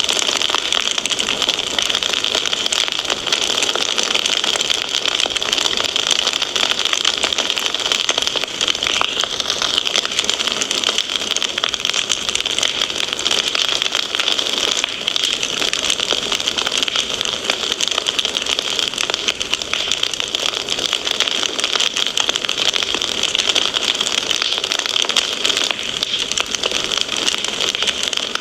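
Wood fire crackling: a dense, steady stream of small pops and hiss.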